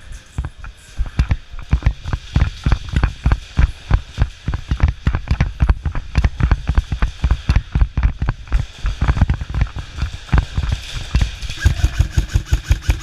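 Heavy, irregular thuds of running footsteps and gear jostling against a body-worn camera, several a second. Near the end comes a quicker, even string of sharp snaps, such as airsoft gunfire.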